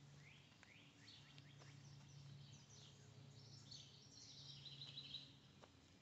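Faint outdoor ambience: many quick small-bird chirps, busiest a little past the middle, over a low steady hum.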